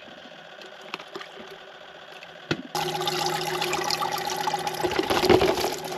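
A sharp click, then about three seconds in a loud rush of pouring, splashing water starts suddenly and keeps going, with a steady hum underneath.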